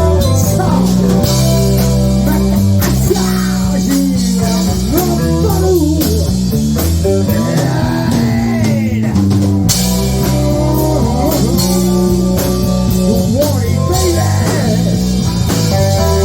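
Rock band playing an instrumental passage: a lead guitar line with notes bending up and down over steady bass and a drum kit.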